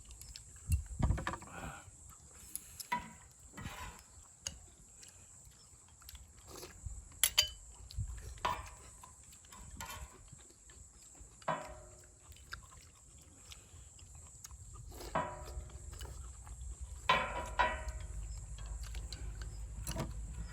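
Mukbang-style eating sounds: ramen noodles and stew being slurped and chewed in short bursts every second or two, with a few sharp clicks.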